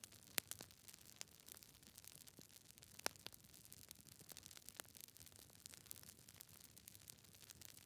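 Wood fire crackling softly over a low hiss of burning logs, with irregular small pops, a sharper one about half a second in and another around three seconds.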